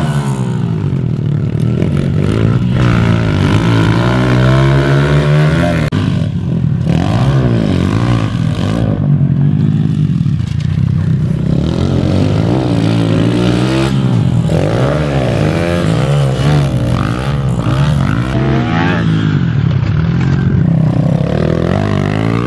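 Two minibike engines revving hard during a race, their pitch repeatedly climbing and dropping as the riders accelerate, shift gears and back off.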